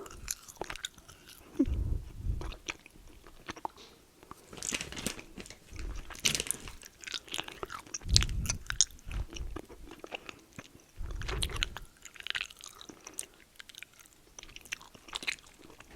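Close-miked crunching and chewing of a crunchy snack, with many small crackles and a few deep thuds.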